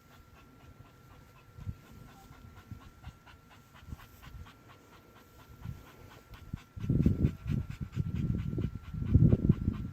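A dog panting on a leash, faint at first and much louder from about seven seconds in.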